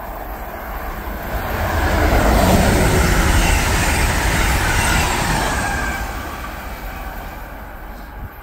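Amtrak passenger train passing at speed: a rush of wheels on rail that swells about two seconds in, holds for a few seconds, then fades away.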